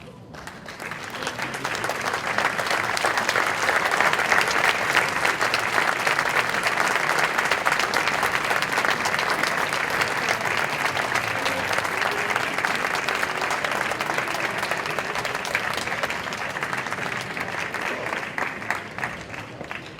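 Audience applauding: many hands clapping, swelling over the first two seconds, holding steady, then dying away near the end.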